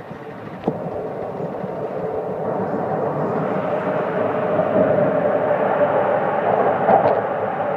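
Jōetsu Shinkansen train heard from inside the car while running: a steady rumble of wheels and rushing air that swells louder after a couple of seconds, with a hum running through it. A single sharp click comes less than a second in.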